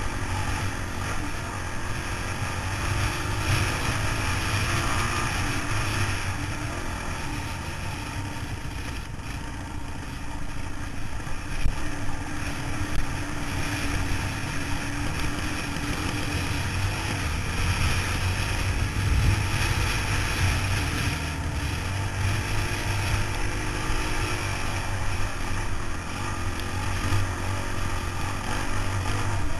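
Motorcycle running at a steady road speed, a low engine drone under a continuous rush of wind noise.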